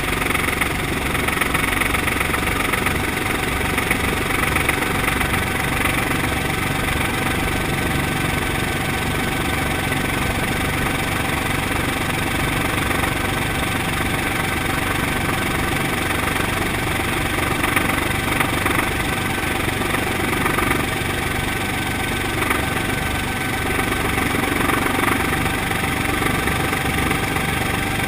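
Brantly B-2B helicopter's four-cylinder Lycoming piston engine and rotor running steadily with an even low rumble.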